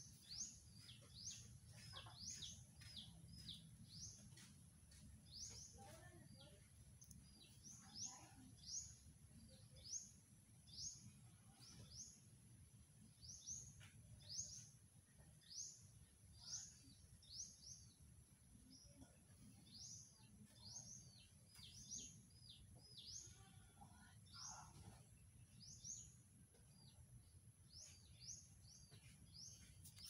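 Faint, high chirps of a small bird repeating about once or twice a second, over a steady low hum.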